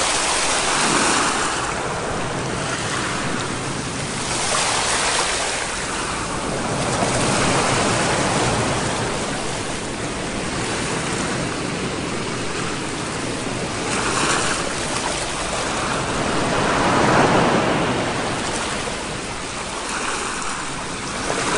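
Sea waves breaking and washing on a shore: a steady rush of surf that swells and ebbs every few seconds.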